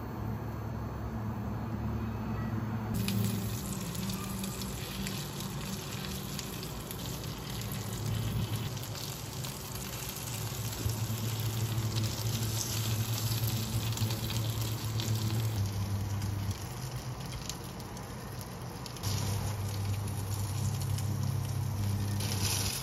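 Egg-battered zucchini slices sizzling as they pan-fry in oil, the sizzle starting about three seconds in, over a low steady hum.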